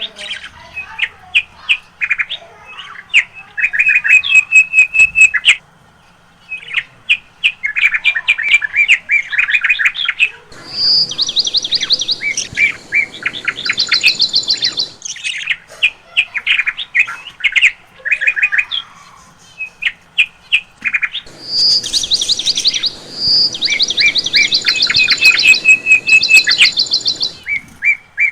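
Several small pet parrots kept as lovebirds chirping and chattering in quick strings of high chirps, with two louder stretches of rapid chirping.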